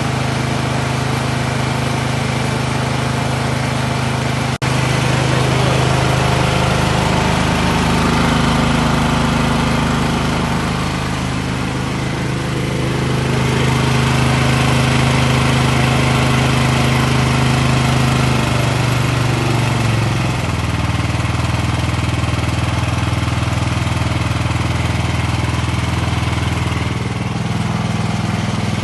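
Cub Cadet snowblower engine running steadily as it warms up. There is a brief break about four and a half seconds in. Its speed drops a little about two-thirds of the way through and picks up slightly near the end.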